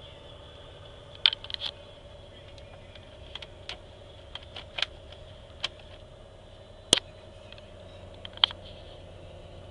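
Scattered sharp clicks and taps over a faint steady hum, the loudest click about seven seconds in.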